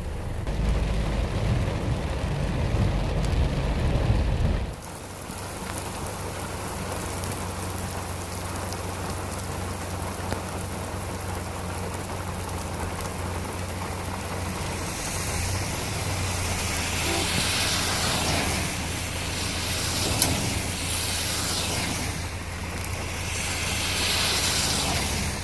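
Steady rain falling, with a loud low rumble of wind on the microphone for the first few seconds and a steady low hum underneath. The rain's hiss grows brighter and heavier in the second half.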